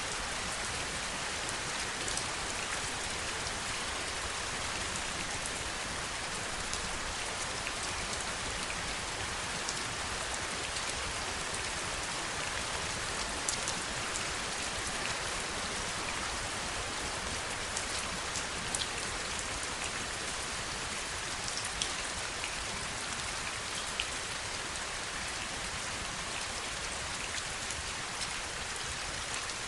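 Steady heavy rain falling, an even hiss with scattered close drops ticking sharply throughout.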